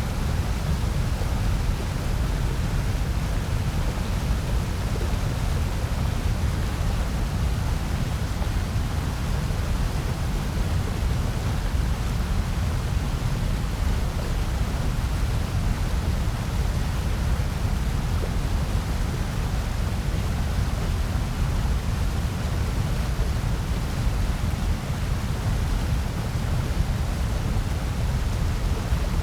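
Steady synthetic noise, weighted toward the low end: an even hiss with a deeper rumble beneath it, unchanging throughout.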